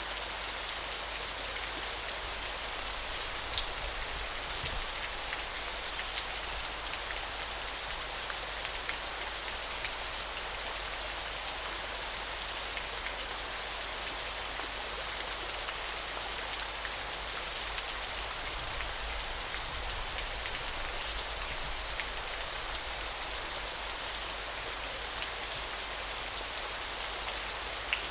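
Steady rushing of flowing water, a continuous even hiss. Over it, a thin, very high buzz comes in repeated bursts of one to two seconds with short gaps, and stops a few seconds before the end.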